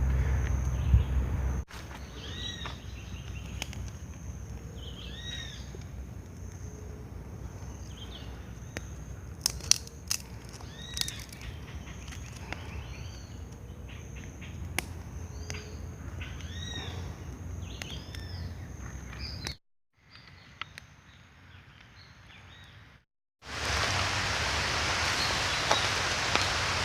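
Outdoor ambience: a bird calling repeatedly in short arching notes over a faint steady hiss and a constant high whine, with a few sharp clicks. Near the end it cuts briefly to near silence, then to a louder, even rushing hiss.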